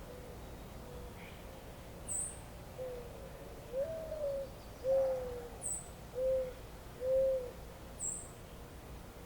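A bird calling a series of five low, pure notes, each arching slightly in pitch, from about three to seven and a half seconds in. Three brief high chirps from a small bird come about two, five and a half and eight seconds in.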